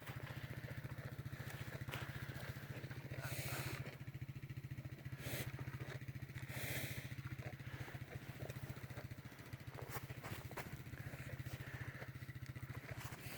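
1950 Farmall tractor engine running steadily at an even low speed, its firing pulses a constant low hum. A few short rushes of hissing noise cut in over it about three, five and seven seconds in.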